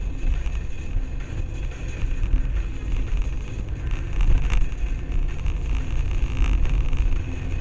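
A car driving, with a steady low engine and road rumble, and a brief click about four and a half seconds in.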